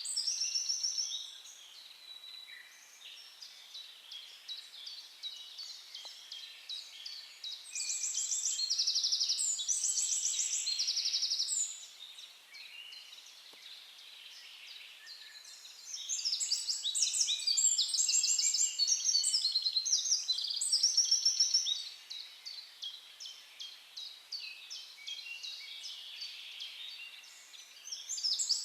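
A chorus of songbirds singing, with many overlapping rapid trills and chirps. Louder bursts of trilling come about eight and sixteen seconds in, with softer chirping between.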